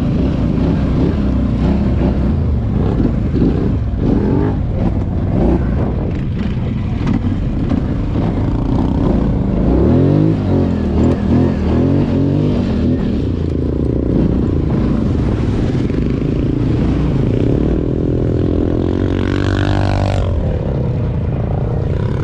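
ATV engine running under changing throttle: its pitch dips and climbs again about halfway through, then revs up sharply near the end.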